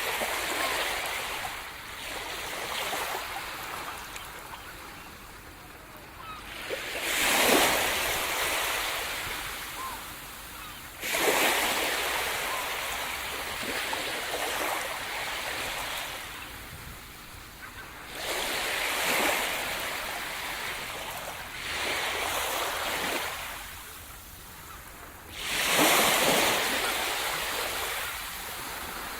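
Sea surf: waves breaking on the shore about every four to seven seconds, each a rushing wash that swells suddenly and then fades away.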